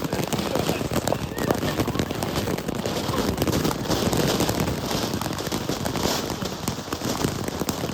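Consumer ground firework spraying sparks: a steady hiss with dense, fast crackling, running without a break.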